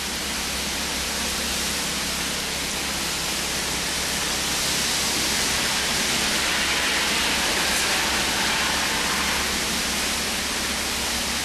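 Steady rushing noise of hurricane wind and rain, swelling slightly about midway through.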